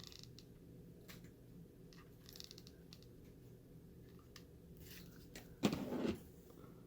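Faint rustling and light clicks of artificial flowers and craft materials being handled, with one short, louder thump about six seconds in, over a low steady background hum.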